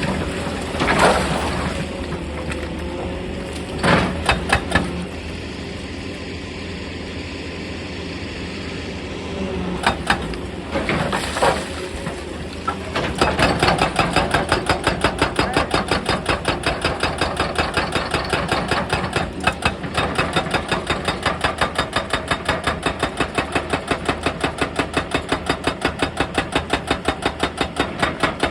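Excavator diesel engine running with a few loud knocks and clanks, then about 13 seconds in a hydraulic rock breaker starts hammering at stone in a rapid, even train of blows, several a second, that keeps going.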